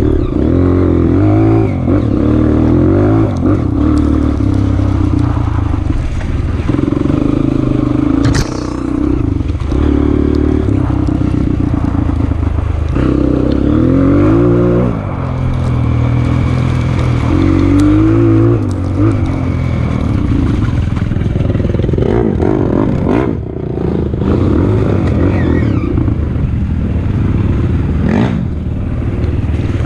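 Honda CRF230F's air-cooled single-cylinder four-stroke engine, revving up and easing off again and again, with a few sharp knocks along the way.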